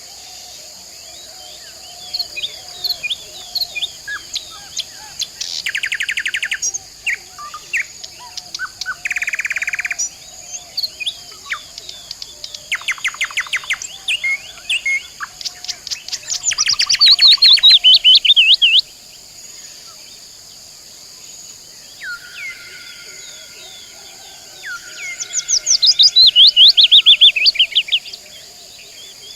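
Birds chirping and singing, with repeated chirps and rapid trills. The two loudest trills fall in pitch, about halfway through and again near the end. A steady high-pitched hiss runs underneath.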